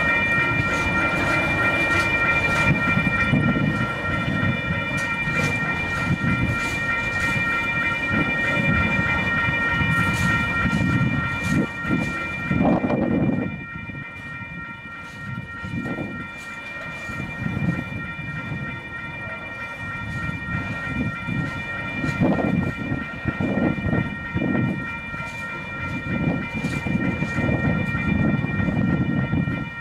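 Container wagons of a slow freight train rolling over a level crossing, wheels rumbling and knocking over the rail joints, with the crossing's warning bell ringing steadily on a few high tones. The wheel noise drops for a while about halfway through, then builds again.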